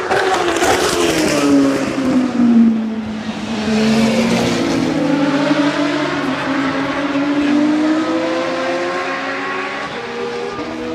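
Racing car engines on track: the engine note falls in pitch over the first three seconds, then climbs slowly and steadily as a car accelerates.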